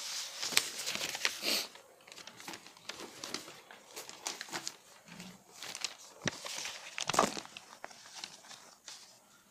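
Irregular rustling and crinkling handling noise with scattered small clicks, loudest in the first two seconds.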